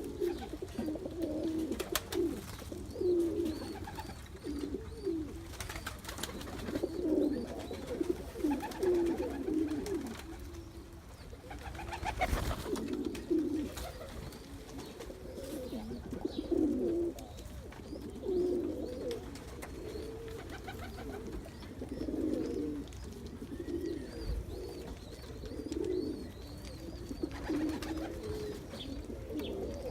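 Indian fantail pigeon cock cooing over and over in low phrases, one after another with short gaps.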